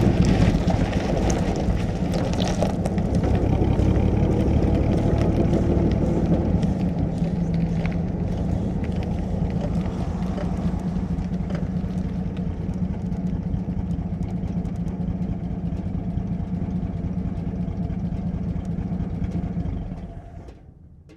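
1937 Plymouth's flathead straight-six engine heard from inside the cabin, running steadily with its note dropping about six seconds in. Near the end the engine is switched off and dies away within about a second.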